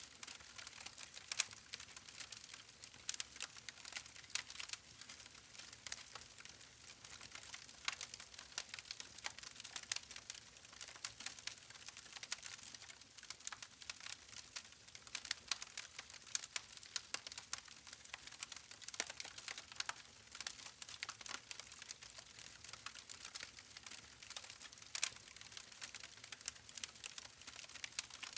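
Wood fire crackling: burning logs giving a dense, irregular run of sharp pops and snaps over a faint hiss.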